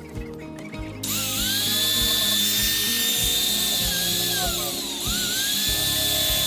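An electric power tool's motor whines up to speed about a second in. Its pitch sags briefly, as if under load, just before five seconds, then it spins back up. Background music with a steady beat plays underneath.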